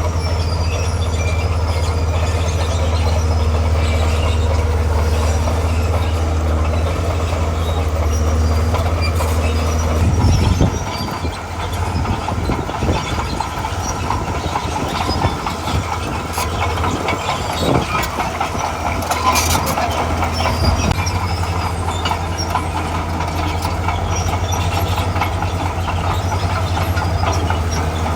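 A D41P crawler bulldozer's diesel engine runs with a steady low drone while its steel tracks clank and rattle. About ten seconds in, the drone gives way to heavier clanking and scattered knocks for roughly ten seconds, then the steady drone returns.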